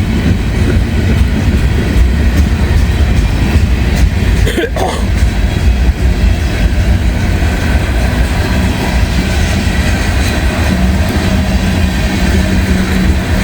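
CSX freight train's cars rolling slowly past on the rails, a loud, steady rumble with wheel clatter.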